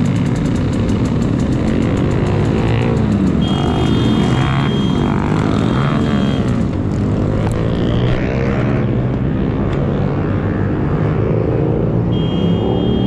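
Motorcycle engines running and revving, their pitch rising and falling again and again.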